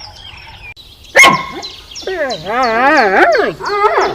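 A dog gives a sharp yelp about a second in, then long whining howls whose pitch wobbles up and down. Faint high ticks repeat about two or three times a second behind them.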